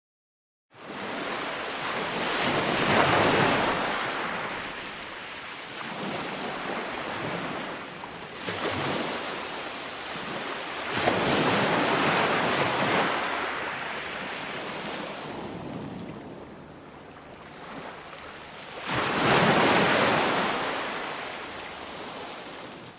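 Ocean waves breaking on a shore: rushing surf that swells and ebbs about four times, starting just after a brief silence.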